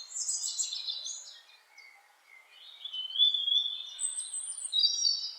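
Several small birds chirping and singing in high, quick calls that overlap. There is a short lull about two seconds in, then a longer, steadier call line comes in with more chirps over it.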